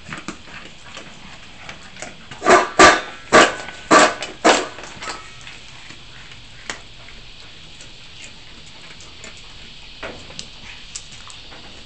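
A Labrador eating dry dog food scattered on the ground. A few seconds in there is a quick run of five loud noises from the dog, about half a second apart, followed by a few faint clicks.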